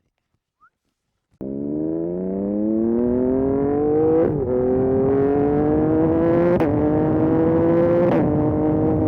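Yamaha MT-09 SP's inline three-cylinder engine through a Dominator aftermarket exhaust, cutting in about a second and a half in and accelerating hard through the gears. The engine note climbs steadily and drops sharply at three upshifts.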